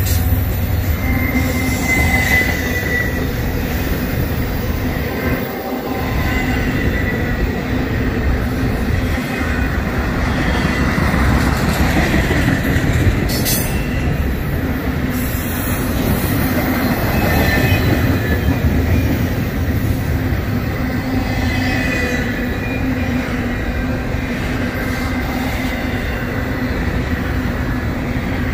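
Intermodal freight train's container well cars rolling steadily past, a continuous rumble of steel wheels on rail. Thin high wheel squeal comes and goes.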